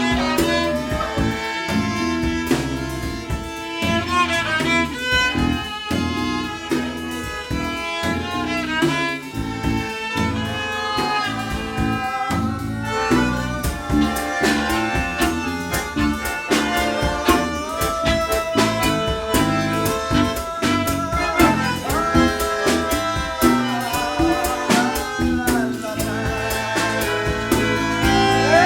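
Instrumental break of a live band: violin carrying the melody over guitar, bass and drums.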